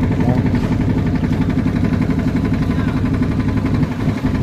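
Motorboat engine running steadily with a fast, even throb.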